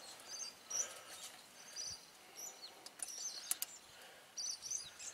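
Small birds chirping in short, faint calls, with a couple of sharp clicks about three seconds in as barbed wire is handled at a chain wire strainer.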